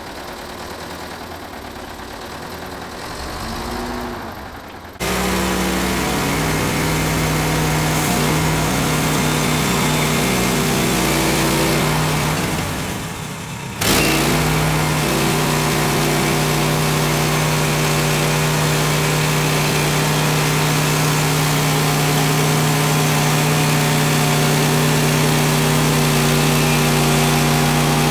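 Small gasoline engine of a Woodland Mills HM130 portable bandsaw sawmill running at a steady speed. It comes in abruptly about five seconds in, drops away briefly near twelve seconds, and comes back abruptly near fourteen seconds.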